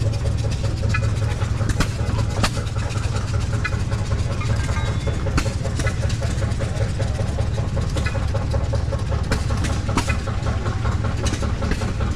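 An engine running steadily with a low, even hum, with scattered sharp clicks and knocks over it.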